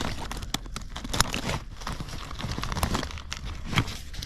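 Hand tools and other items being rummaged through and moved in a truck's underseat storage box: rustling with many scattered clicks and knocks.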